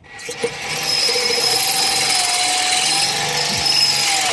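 Pistol drill running at full speed, its bit boring through a snapped steel exhaust stud in the exhaust manifold, with a steady whine over the grinding of metal. It starts at once and stops abruptly near the end, as the bit breaks through the stud.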